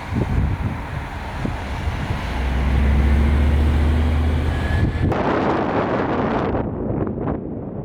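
Strong wind buffeting the microphone in rough, uneven gusts. A steady low hum, like a motor, joins in from about two seconds in for a couple of seconds.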